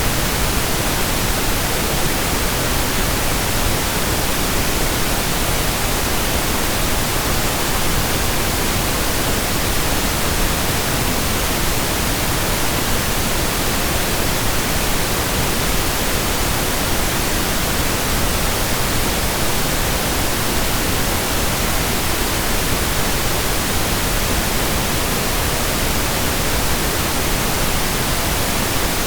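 Warm, steady pink noise: an even, unchanging hiss spread across all pitches.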